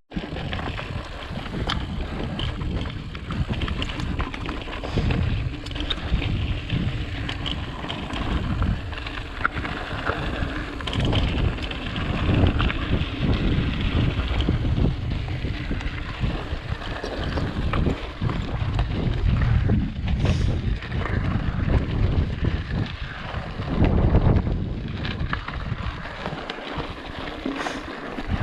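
Wind buffeting the microphone over the rumble and rattle of an Ibis Ripley mountain bike rolling over rough rock trail, with scattered knocks from the tyres and frame over bumps.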